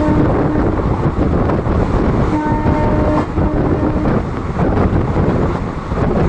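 Loud rumble and rattle of an express train running at speed, heard from inside an open general coach. The WAP4 electric locomotive's horn sounds twice: a held note fading out about a second in, then a second note of nearly two seconds.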